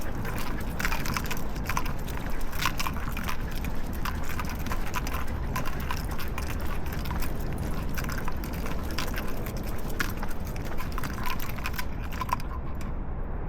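Walking noise from a dog walk: irregular light clicks and rattles over a steady low rumble, typical of leash and collar hardware and footsteps picked up by a body-worn camera.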